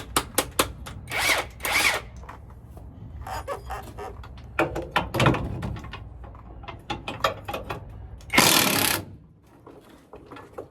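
Metal tool clicks and clinks with several short bursts of a power tool; the longest and loudest burst comes near the end.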